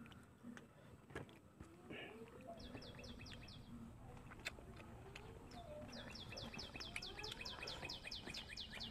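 A songbird singing rapid trills of short, high, downward-sweeping notes, about eight a second: a brief run about two and a half seconds in and a longer one from about six seconds in. Faint clicks and taps of eating by hand sound under it.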